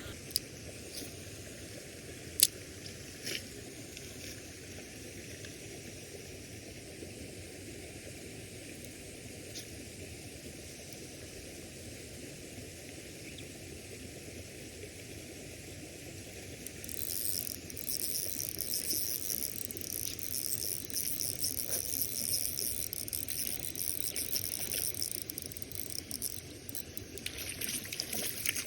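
Steady hiss of running water with one sharp click a couple of seconds in. From just past halfway, a fine, high, fluttering whir runs for about ten seconds: a spinning reel being cranked on the retrieve.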